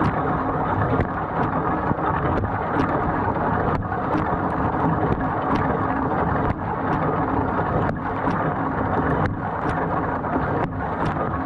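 Dishwasher running a wash cycle: the wash pump runs and water sprays inside the tub in a steady rushing noise, with irregular light ticks of water hitting the racks and walls.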